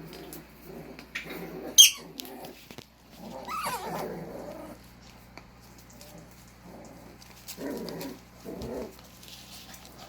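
Corgi puppies play-fighting: a run of short, low play growls, with a sharp squeal about two seconds in and a falling whine near four seconds in.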